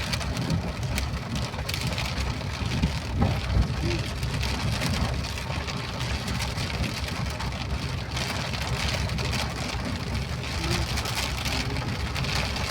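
Rain falling, with scattered individual drops striking close by, over a steady low rumble of a vehicle on the road.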